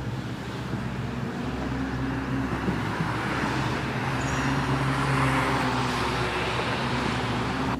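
Steady road-vehicle noise: a low engine hum under a rushing hiss.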